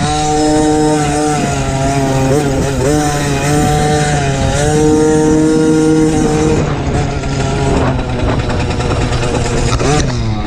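Small 50cc minicross bike engine (MXF 50 Pro Racing) heard onboard while racing, its pitch climbing, holding and dropping again several times as the throttle opens and closes.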